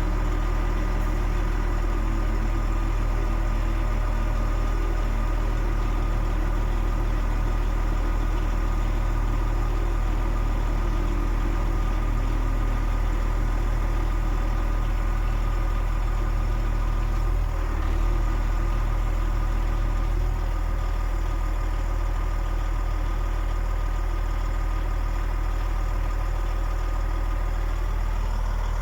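DAF XF 105.460 truck's PACCAR MX 12.9-litre six-cylinder diesel idling steadily.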